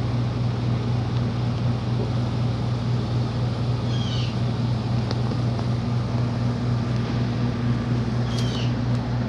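Steady low machine drone with a constant hum, like idling equipment at a truck depot, unchanging throughout. Two short high falling chirps sound over it, about four seconds in and near the end.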